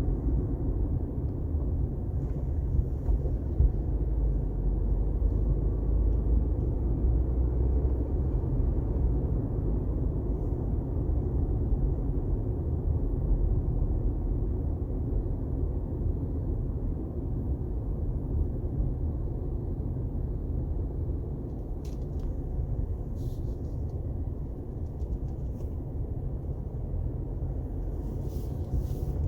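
Steady low rumble of a car driving on the highway, road and engine noise, with a few faint short clicks near the end.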